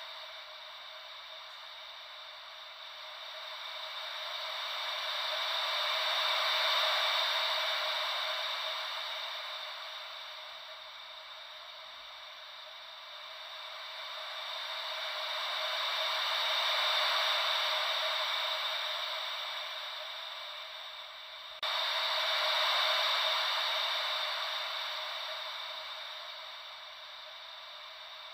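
Ocean-wave white noise: a steady hiss with no deep rumble that swells and fades slowly, cresting about every ten seconds like waves washing in. About 22 seconds in, the level jumps up abruptly.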